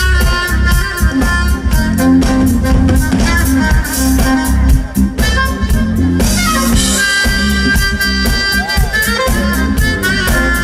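Live smooth jazz band playing, with a saxophone lead holding long notes and sliding between them over drum kit and bass.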